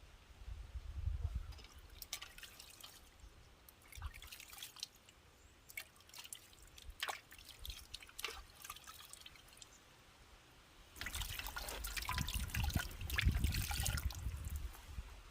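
Water dripping and splashing in scattered bits, then a denser, louder run of splashing for about three seconds starting some eleven seconds in.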